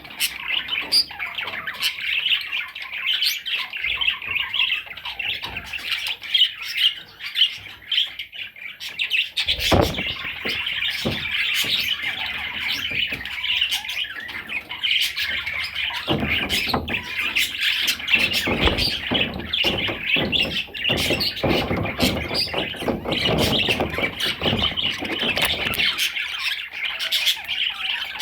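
Budgerigar warbling and chattering without a break, with many sharp chirps and squawks. Duller knocks and rustles come in here and there through the middle.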